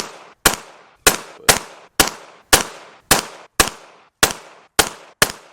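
Semi-automatic pistol firing about ten shots in a steady string, roughly two a second, each crack followed by a short echo.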